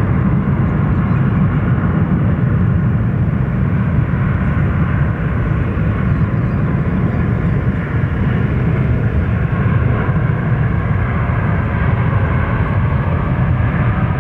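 Jet airliner taking off: the engines' steady, loud low rumble.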